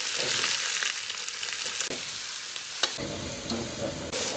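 Pieces of blanched peacock meat sizzling as they go into hot oil in a wok and are stir-fried, a steady frying hiss. A metal ladle clicks against the wok a couple of times as it stirs.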